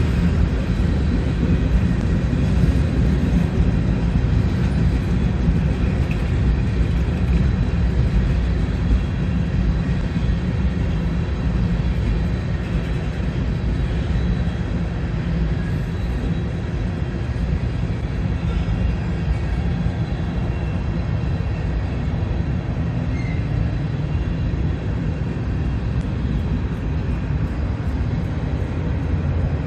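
Freight train rolling past: a steady, heavy low rumble of rail cars that runs without a break.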